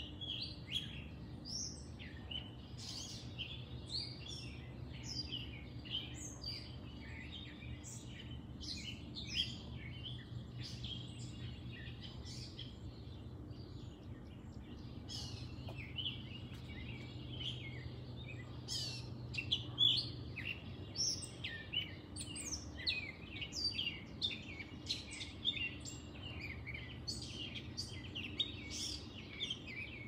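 Several wild birds chirping and calling, many short overlapping chirps and whistles throughout, over a steady low background hum.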